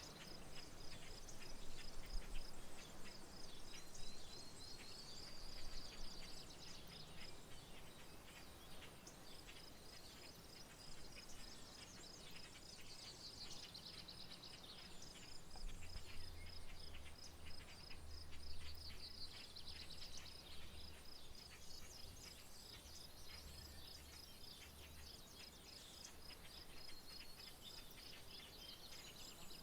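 Faint rural outdoor ambience: an insect chirps steadily in a fast, even pulse while birds call with scattered chirps and short trills. A faint low hum comes in around the middle and fades.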